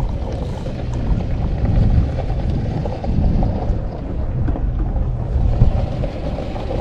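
Strong wind buffeting the microphone: a steady low rumble that swells and eases with the gusts.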